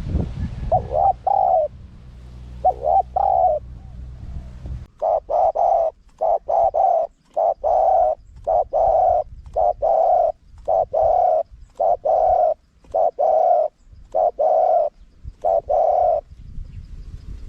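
Spotted dove cooing, a recorded call used as a decoy to lure wild doves. Two short cooing phrases come in the first few seconds, then a long run of evenly spaced coos, roughly one a second, from about five seconds in until near the end. A low rumble underneath cuts off suddenly about five seconds in.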